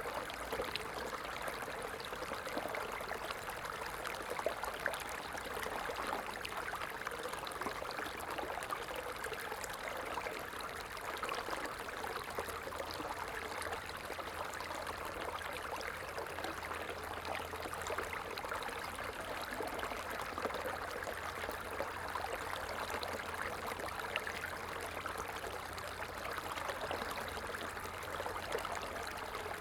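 Small stream running steadily over stones, a continuous babbling and trickling of water.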